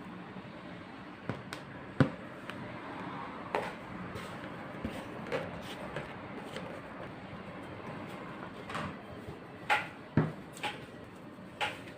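Household handling sounds: a series of light knocks and clicks as objects are picked up and set down, scattered irregularly and coming more often near the end, over a steady low background.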